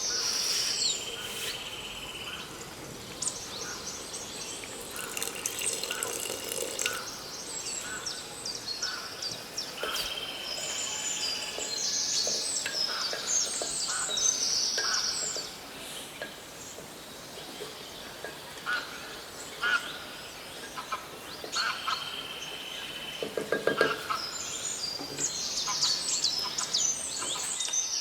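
Several birds chirping and singing, with many short high calls and trills throughout. A brief, lower pitched call stands out about 24 seconds in.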